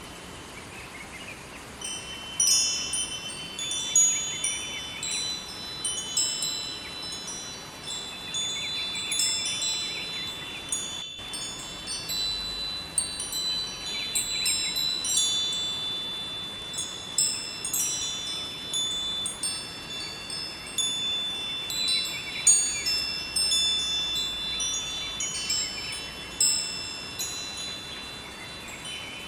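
Wind chimes ringing in irregular, overlapping high bell-like strikes, starting about two seconds in, over a steady rush of flowing river water.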